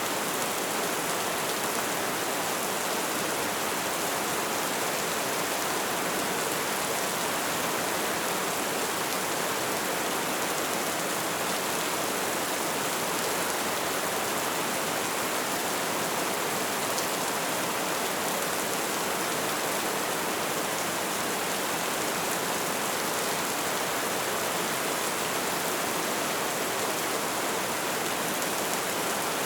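Light rain falling, a steady even hiss of drops with no distinct individual drips standing out.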